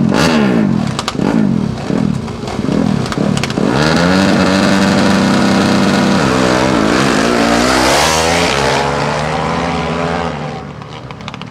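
A pack of 450cc four-stroke dirt-track racing motorcycles revving hard at the start line, then going to full throttle at the launch about three and a half seconds in. Their engine pitch climbs and drops through the gear changes as they accelerate away, and the sound fades near the end.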